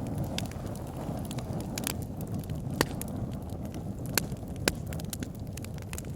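Wood logs burning in a log burner: a steady low rumble of the flames with irregular sharp crackles and pops, a few louder pops around the middle.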